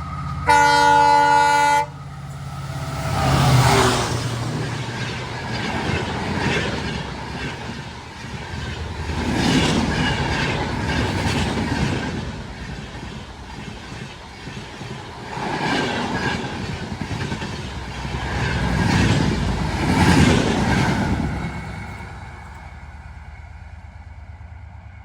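An EMD diesel locomotive's horn gives one short, loud blast about half a second in. The express train then runs past with its wheels clicking over the rail joints, the noise swelling and fading several times before dying away near the end.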